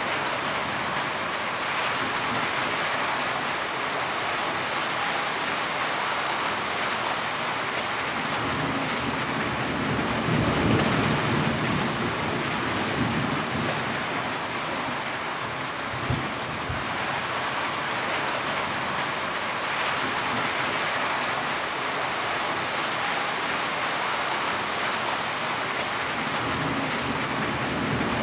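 Heavy rain falling steadily, with a low rumble of thunder building about ten seconds in and again near the end, and a short thump in the middle.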